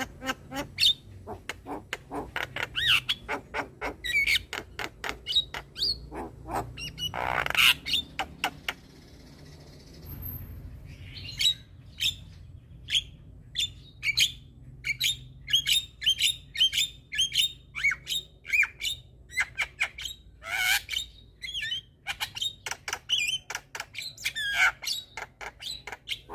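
Javan myna chattering: rapid runs of short harsh squawks, clicks and whistled notes, with one loud rasping burst and a brief pause about nine seconds in before the chatter starts again.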